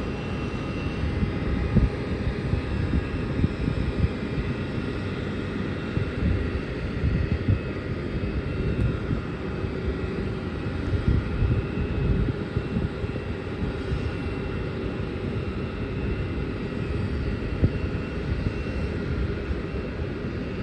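Jet airliner engines, a Boeing 787 on approach: a steady rumble with a faint whine of thin high tones above it.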